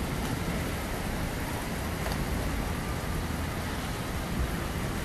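Steady rain falling on a wet street: an even hiss with no distinct events.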